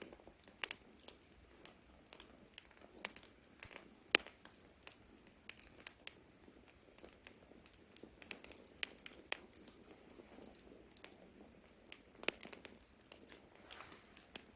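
Campfire crackling: wood burning with irregular sharp pops, a few louder than the rest, over a faint steady hiss.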